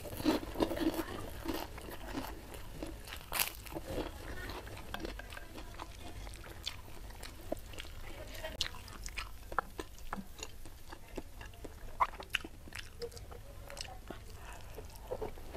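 Close-miked eating: a crisp white fried cracker crunching in the first few seconds. After that comes softer chewing with scattered mouth clicks as rice and sambal are eaten by hand.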